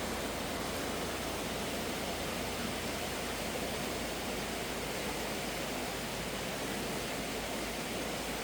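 Steady rushing of a flowing river, an even hiss of water without breaks.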